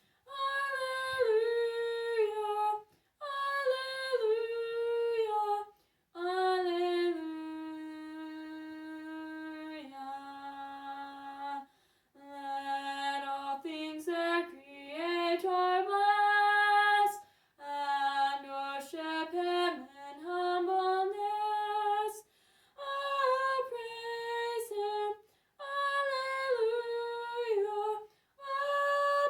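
A woman singing a song in short phrases with brief pauses between them, holding one long note about seven seconds in.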